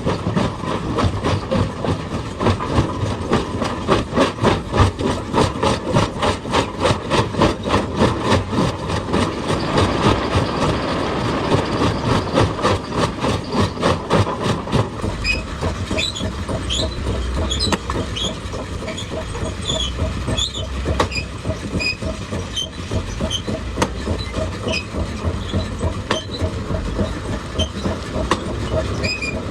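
Excavator-mounted hydraulic rock breaker hammering stone in a fast, steady rhythm of about four to five blows a second, stopping about halfway through. After that come irregular sharp clinks and knocks over a low rumble.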